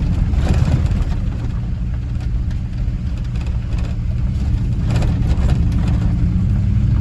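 Car's engine and road noise heard from inside the moving vehicle, a steady low rumble.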